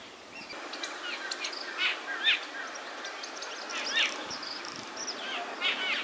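Small birds chirping: short, high chirps in quick clusters of two to five, repeating over a steady outdoor hiss.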